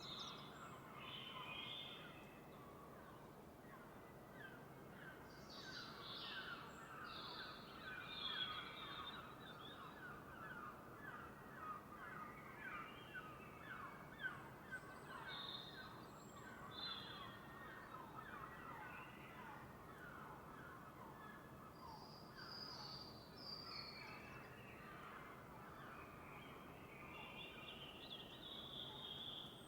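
Faint dawn chorus: several birds chirping and singing over a low, steady background noise.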